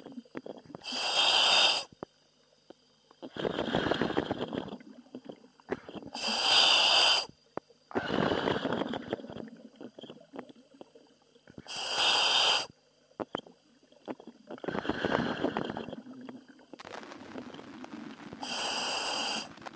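Commercial diver breathing through a helmet demand regulator over the dive communication line: slow, regular breaths about every five to six seconds. Each breath is a sharp hissing inhale through the demand valve, then a rumbling, bubbling exhale. Four breaths are heard.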